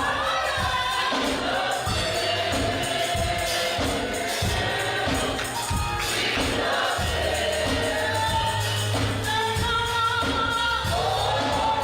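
Gospel choir singing with band accompaniment: a steady bass line and a regular percussion beat under the voices.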